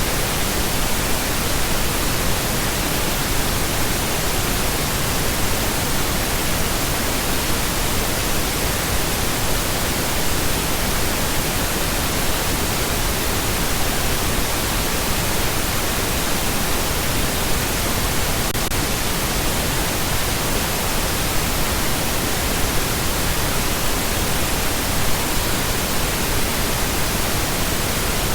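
Steady, continuous pink noise: an even hiss spread across all frequencies, unchanging throughout.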